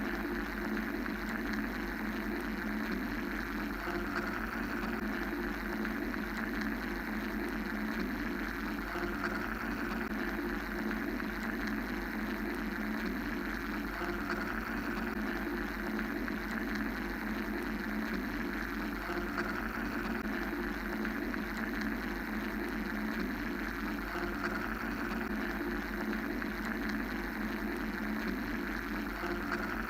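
Steady mechanical white-noise drone: a low hum under a whirring hiss, with a gentle swell every five seconds or so.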